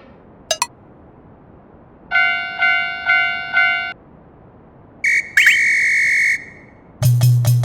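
Four evenly spaced bell-like dings, then a whistle blown as a short toot followed by a long blast. Percussive music with a strong beat starts near the end.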